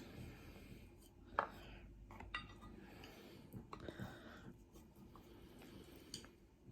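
Quiet, scattered clinks and scrapes of eating utensils against a dish, the sharpest about a second and a half in.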